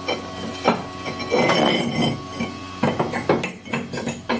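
Fireclay bricks being set into a steel fireplace frame: several sharp knocks and clinks, with a scraping stretch about a second and a half in.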